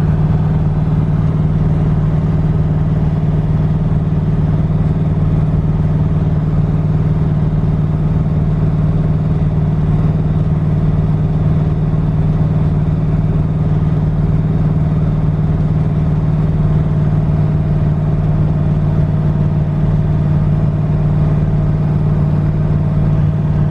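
LS V8 of a twin-turbo Fox-body Mustang cruising at a steady speed, its exhaust, which has no mufflers, droning at an even pitch heard from inside the cabin.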